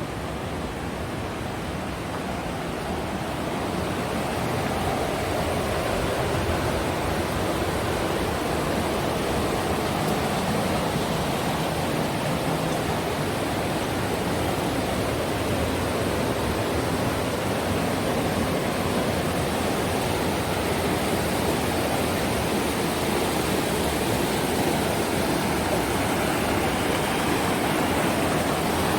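Steady rushing of fast-flowing river water over rapids or a waterfall, growing a little louder a few seconds in.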